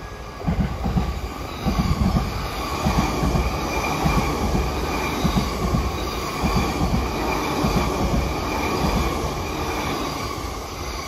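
E261 series electric multiple unit passing through a station: a continuous rail rumble with many irregular thumps as the wheels cross rail joints, under a steady high-pitched whine.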